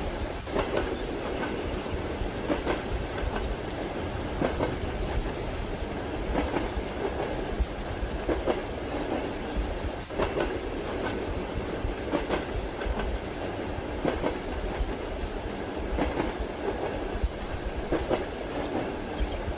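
Passenger train carriage rolling along, its wheels clacking over rail joints about every two seconds above a steady running rumble, with rain mixed in.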